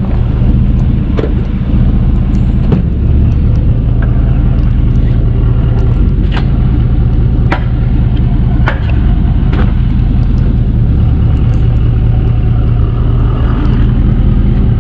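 Tow truck running steadily at a low, even hum while the towed vehicle is let down, with a few sharp clicks and knocks over it.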